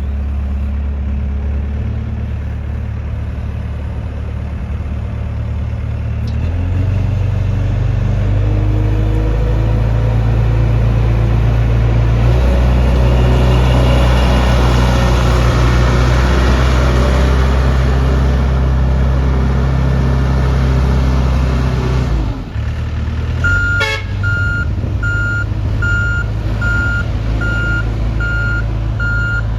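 XCMG XC740K mini skid steer loader's engine running and throttling up under work, its pitch stepping up twice, then dropping back sharply. Near the end a click comes and the reversing alarm starts beeping steadily and repeatedly.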